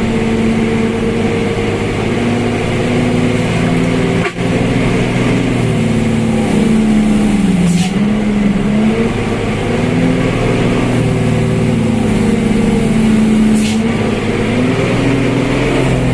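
Truck engine running hard under load, its pitch sagging about halfway through and then climbing back. Two short hisses come through over it.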